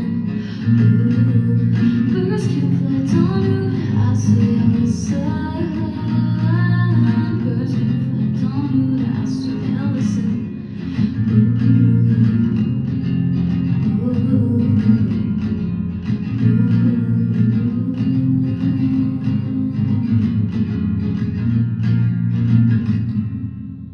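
Guitar music playing a repeating chord progression, with a melodic line above it, fading out near the end.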